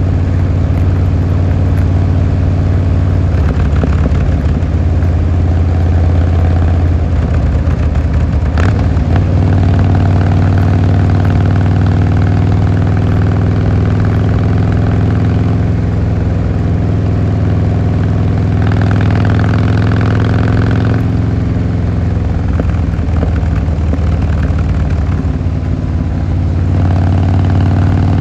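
Harley-Davidson Fat Boy Lo's air-cooled V-twin engine and exhaust running steadily, its note shifting briefly a few seconds in and again around nine seconds in.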